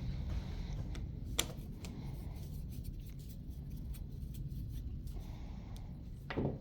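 Small clicks and scraping of a window latch being worked apart by hand, with a sharper click about a second and a half in and a short louder rattle near the end.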